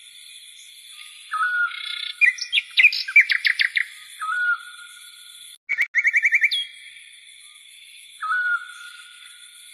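Songbirds calling: a short whistled note repeats several times, and two quick runs of rapid chirps come about two and six seconds in, over a steady high-pitched background drone.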